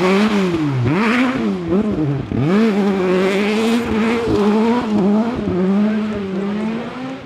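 Rally car engine at full stage pace, its pitch swooping up and down several times as the driver shifts gears and lifts off, then holding high and steady under sustained throttle.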